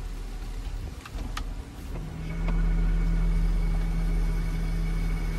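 2018 Dodge Durango's 3.6-litre V6 idling, heard from inside the cabin. A couple of light clicks about a second in, then about two seconds in a steady hum comes on and the sound grows louder as the air conditioning engages.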